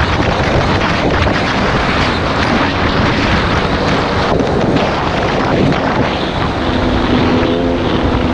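Two-stroke enduro motorcycle engine running on the trail, heavily mixed with wind buffeting on the microphone. From about six and a half seconds in, a steady engine note with a clear pitch comes through the noise.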